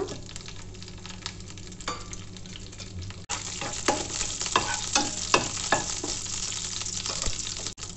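Green chillies and curry leaves sizzling in hot sesame oil in a nonstick frying pan while a wooden spatula stirs them, with many small clicks over the hiss. The sizzle gets louder about three seconds in.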